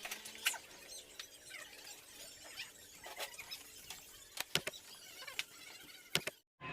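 Faint, irregular clicks and taps with a few short high squeaks, cutting off abruptly near the end.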